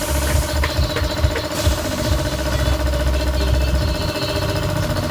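An engine running steadily, with a low rumble and scattered knocks under a steady hum.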